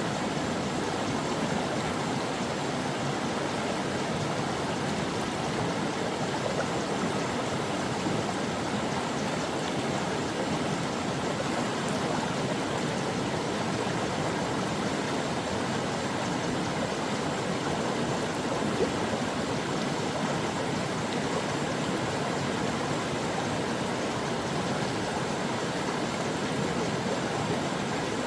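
Creek water flowing steadily, a continuous even rush of running water with no breaks.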